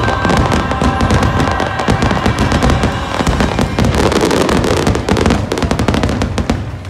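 A rapid barrage of aerial fireworks, many bangs and crackles close together, over loud show music holding a chord. The bursts fade out right at the end.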